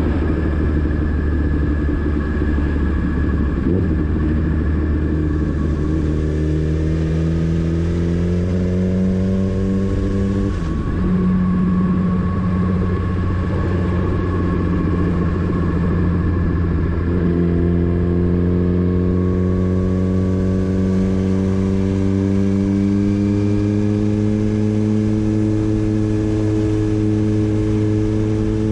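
Motorcycle engine heard while riding, pulling under load. Its pitch climbs, drops sharply at a gear change, holds, drops again at a second shift, then climbs slowly as the bike gathers speed.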